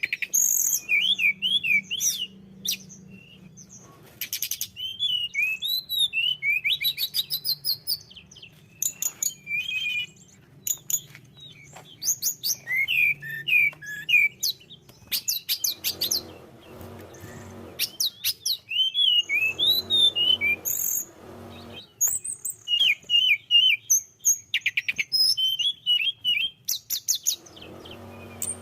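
A tledekan gunung singing a long, varied song of quick chirps, high whistles and fast rattling trills, delivered in bursts with short gaps. Three times a brief low rustling noise runs under the song.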